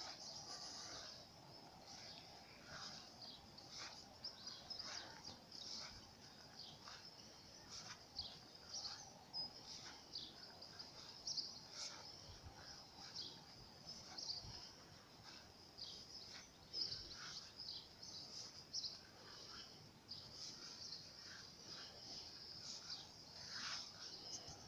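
Faint outdoor birdsong: many small birds chirping and twittering in quick, overlapping high notes over a light background hiss.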